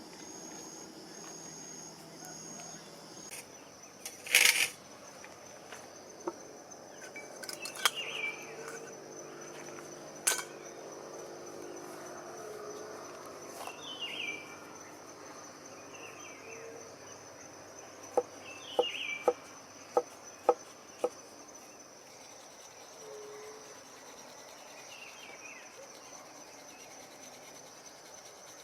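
Insects, crickets or similar, trilling in a steady high continuous drone, with short falling chirps now and then. Scattered sharp clicks and knocks break in, the loudest about four seconds in, with a quick run of about six clicks a little past the middle.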